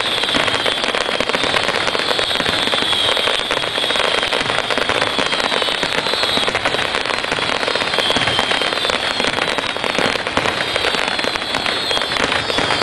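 Fireworks finale by Lidu Fireworks: a dense, unbroken barrage of crackling bangs, with whistles sliding down in pitch again and again over the top.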